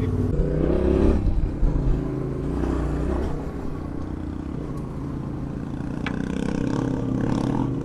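Adventure motorcycle engine running under the rider on a dirt track, its note rising near the start and easing off to a steadier pace after about three seconds, with rattling from the bike over the rough ground.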